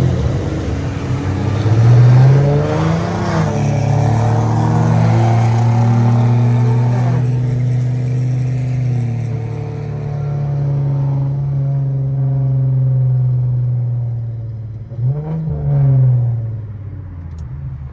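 Infiniti Q50's 3.7-litre V6 exhaling through a loud aftermarket exhaust with test pipes, pulling up in revs about two seconds in and then holding a steady drone while cruising. About fifteen seconds in it gives a quick rise and fall in revs, then it settles quieter near the end.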